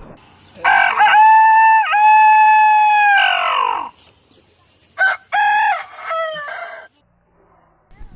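A man imitating a rooster's crow with his voice: one long held crow that dips briefly twice in pitch, then a shorter, broken crow about five seconds in.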